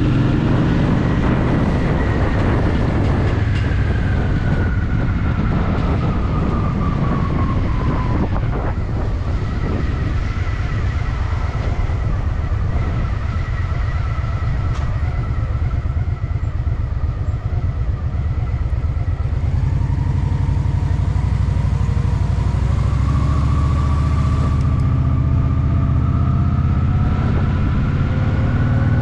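Honda Shadow VT750's V-twin engine running under way, easing off over the first several seconds, quieter through the middle, then building again in the last third as it accelerates. A thin high whine falls as it slows early on and rises as it speeds up near the end.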